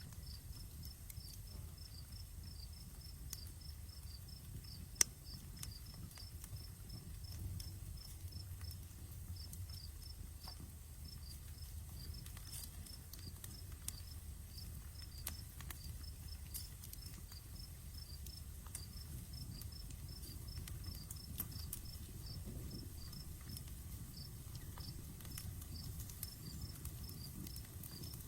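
Outdoor campfire crackling with scattered small pops, one sharp pop about five seconds in, over a steady, rapid high chirping of insects.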